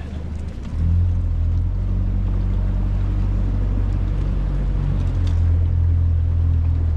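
Boat's outboard motor running steadily underway, with water and wind noise, heard from aboard. It gets louder under a second in.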